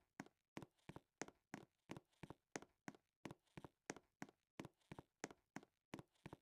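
Faint, regular tapping, about three short taps a second, some falling in close pairs, over a faint steady hum.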